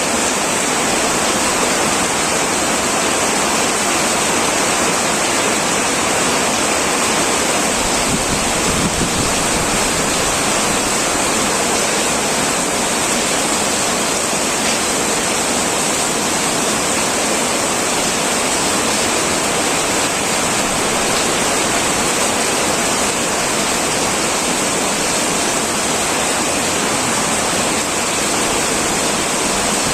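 Heavy rain falling steadily on an old tin roof, a continuous even hiss without a break.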